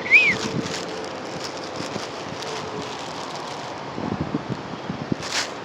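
A bird gives a short chirp that rises and falls in pitch right at the start, over steady wind noise on the microphone, with a few scattered low knocks and a brief rustling swish near the end.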